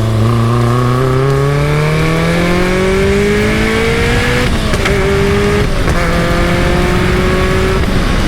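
Caterham Super Seven's engine accelerating through the gears: its pitch climbs through a long pull of about four seconds, then drops at each of three quick upshifts in the second half, climbing again after each.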